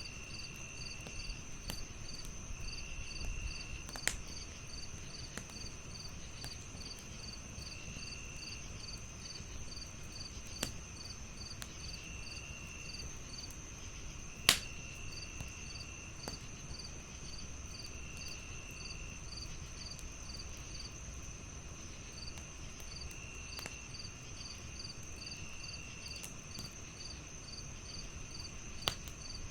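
Crickets chirping in several overlapping patterns: one steady high trill, one regular pulsed chirp, and a lower trill coming and going every few seconds. A wood fire crackles with scattered sharp pops, the loudest about halfway through.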